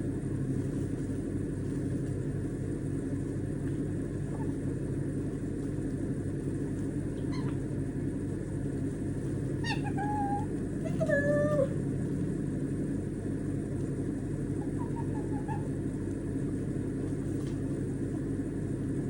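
A steady low background rumble, with a white-bellied caique giving a few short whistled chirps: a brief one about seven seconds in, a louder cluster around ten to twelve seconds, and a faint one near fifteen seconds.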